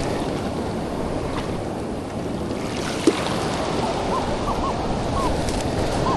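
Ocean surf washing steadily, with wind buffeting the microphone. There is a single short knock about three seconds in, and a few faint short warbling tones in the second half.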